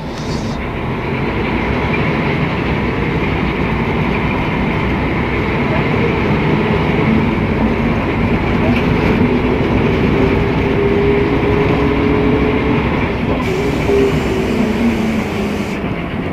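Mercedes-Benz O500MA articulated bus heard from inside while under way: the diesel engine and drivetrain run steadily with a whine that climbs in pitch through the middle and eases back down near the end. This bus is known for a sound peculiar among the O500MAs of its fleet.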